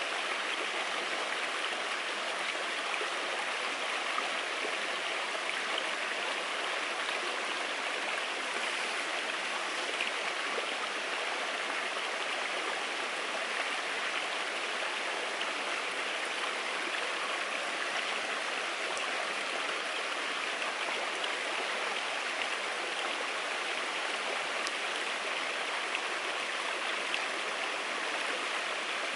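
Steady, even rushing of running water, like a nearby stream, with a few faint clicks.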